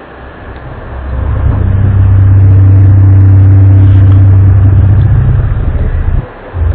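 Loud, low droning rumble with a steady hum, of the kind posted as a strange sound in the sky. It swells up about a second in, holds steady, drops out briefly near the end and returns.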